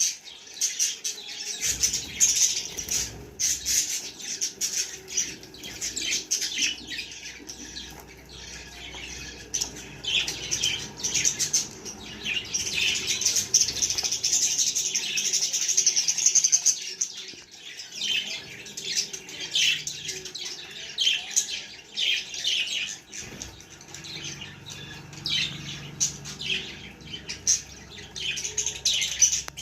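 Budgerigars chirping and chattering without a break, many rapid high calls overlapping.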